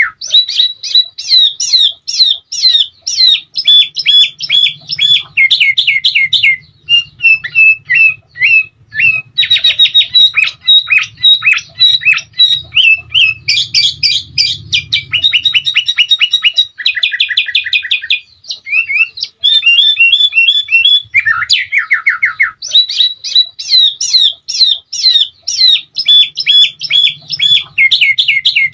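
Caged sooty-headed bulbul (kutilang) singing nonstop: fast trills and runs of repeated chirping notes in canary-style phrases, with only brief pauses between them.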